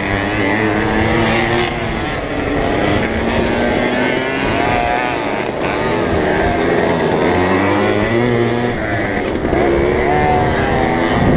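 Small two-stroke racing motorcycle engine running hard, its revs climbing and dropping back several times.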